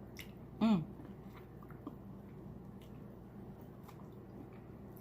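Close-up chewing and mouth sounds of a person eating seafood, with faint scattered clicks. About half a second in, one short hum from the eater, falling in pitch.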